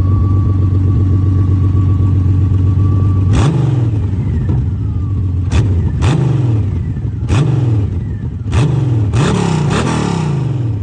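Honda Rune's 1832cc liquid-cooled flat-six engine running steadily for about three seconds, then revved in about six quick throttle blips, each rising sharply and falling back.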